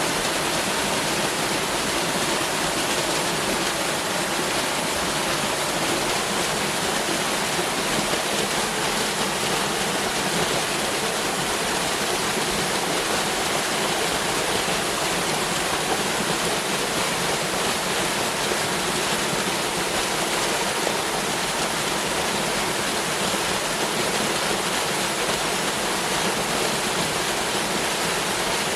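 Waterfall rushing steadily: a constant, even rush of falling and flowing water with no breaks.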